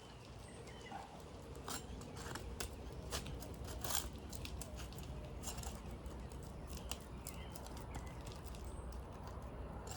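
Asphalt shingles being worked loose with a putty knife: scattered short scrapes and crackles as the sealant strip is pried apart, with faint bird chirps.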